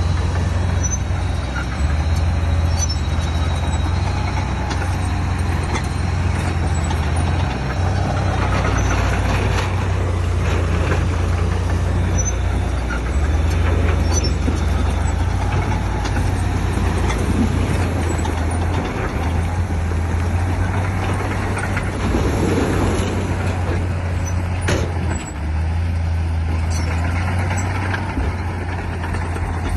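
Heavy diesel engines of a bulldozer and dump truck running steadily under load, with a deep, even drone. A single sharp clack comes about five-sixths of the way through.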